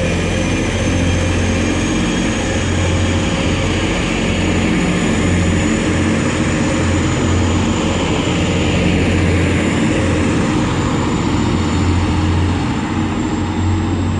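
Class 185 diesel multiple unit pulling away from the platform, its underfloor diesel engine running steadily under power with a deep, even drone.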